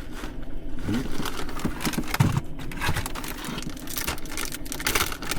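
Packaging crinkling and rustling in irregular crackles as crispy fried jalapeños are shaken out onto a tortilla.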